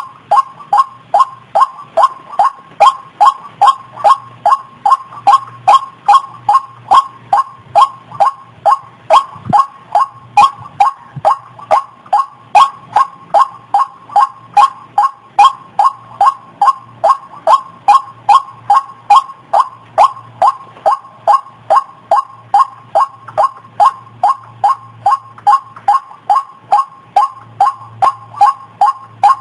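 White-breasted waterhen calling: short, sharp call notes repeated steadily, about two and a half a second, without a break.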